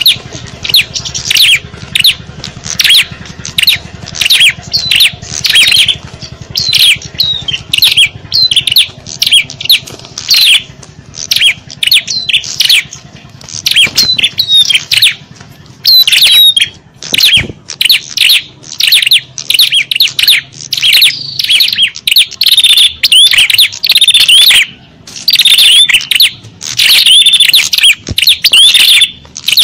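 Dense, loud chatter of small songbirds: many rapid high chirps and twittering notes overlapping without pause, a lure (pikat) recording made to draw small birds in. A faint low hum lies under it until about two-thirds of the way through.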